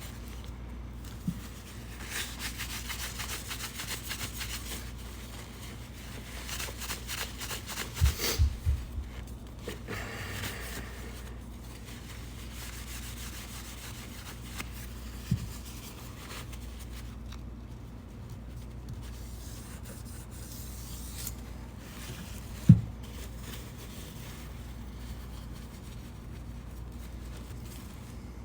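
Handling noise from a chainsaw's bar and chain: rubbing and scraping, with a few sharp knocks. There is a cluster of knocks about eight seconds in, and the loudest single knock comes about twenty-three seconds in.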